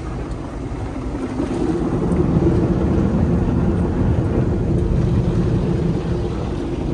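A car's engine and road noise, steady, growing louder about two seconds in.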